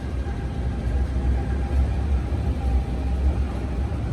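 Electric metro train running along the track: a steady low rumble with a faint constant hum over it.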